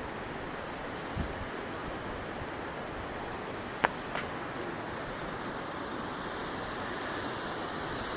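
Steady rushing water of a waterfall, an even roar. A short low thump comes about a second in, and a sharp click just before four seconds in, followed by a fainter one.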